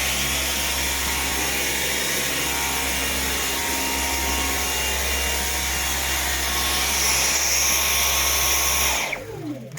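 Dyson V11 Absolute cordless stick vacuum running steadily on its medium power setting, a steady motor whine over rushing air. About nine seconds in it is switched off and the motor spins down with a falling whine.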